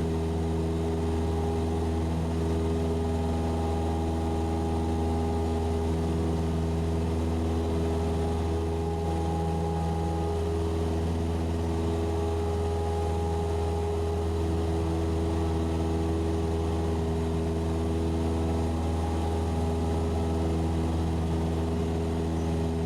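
Cessna 172SP's four-cylinder Lycoming piston engine and propeller droning steadily at climb power just after takeoff, heard from the aircraft.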